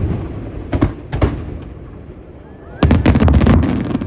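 Aerial fireworks shells bursting: two sharp bangs about a second in, then a rapid volley of bursts that crackle together near the end.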